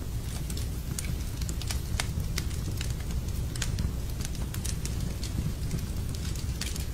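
Wood fire crackling in a fireplace: irregular sharp pops and ticks over a steady low rumble.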